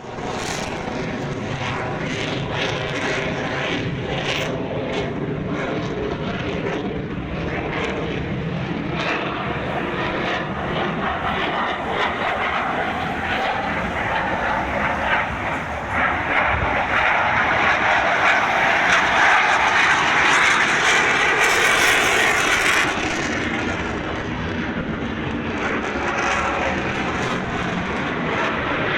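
An airplane's engine as the aircraft flies past. It runs steadily, grows louder for several seconds after the middle, then eases off.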